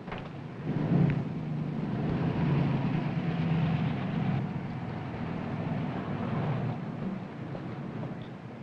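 A motor vehicle's engine running as it drives by. The rumble builds about a second in, holds steady, and fades toward the end.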